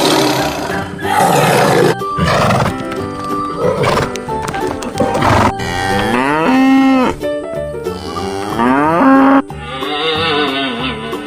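A cow mooing, two long moos in the second half, with music playing underneath.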